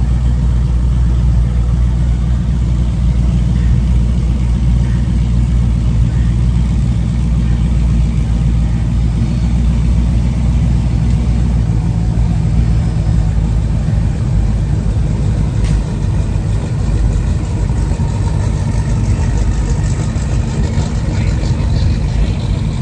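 A vehicle engine idling: a steady, deep rumble that eases somewhat about halfway through.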